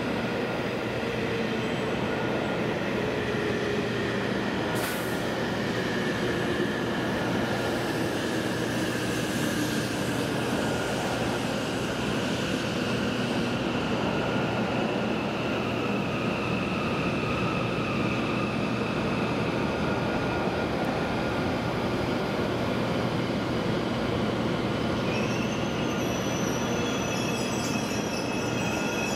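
E7 series Shinkansen train rolling slowly into the station platform: a steady rumble of wheels and running gear, with a whine that slowly falls in pitch as the train slows. About three-quarters of the way through, a higher squeal comes in.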